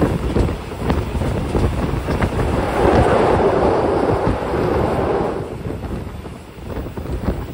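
Passenger train running along the track, heard from on board: low rumble with scattered clicks from the wheels and rails, and wind buffeting the microphone. About two and a half seconds in, a louder rushing swells for roughly three seconds, then eases.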